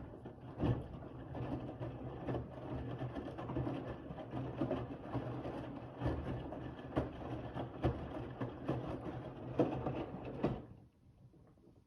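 Bosch WAV28G93 front-loading washing machine drum turning during the 60 °C main wash, its motor humming under the irregular slosh and thud of wet towels tumbling. The drum stops near the end.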